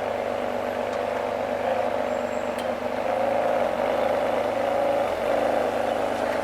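A car engine running steadily at low revs, a little louder from about halfway through.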